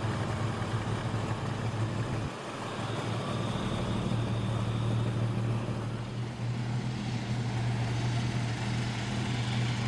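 Vintage car engine idling with a steady low hum, dipping briefly a little over two seconds in.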